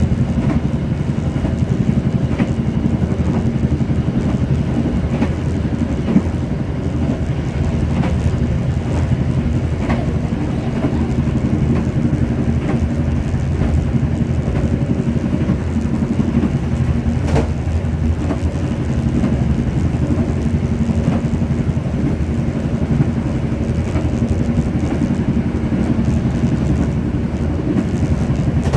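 Passenger train in motion: a steady low rumble of the running train, with sharp wheel clicks over rail joints, about every two seconds at first and more scattered later.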